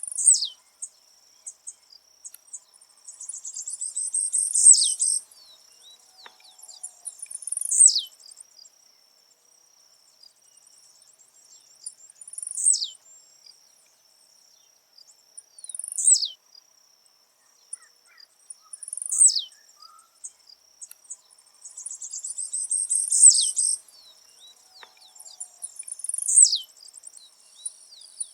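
Blue-black grassquit (tiziu) singing its short, high, down-slurred buzzy song again and again, about every three to four seconds, with two longer chattering bursts. A steady high insect trill runs behind it.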